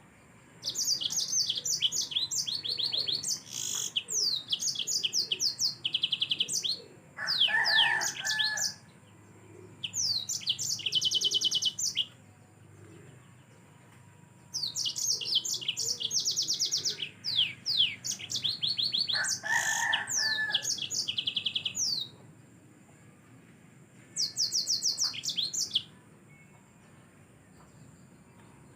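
Yellow-fronted canary (Mozambique canary) singing in vigorous bouts of rapid trills and high chirps, several seconds each, with pauses of two or three seconds between.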